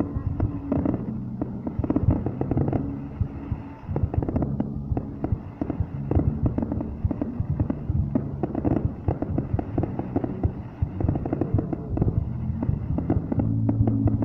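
Fireworks display: many bangs and crackles going off in rapid, irregular succession.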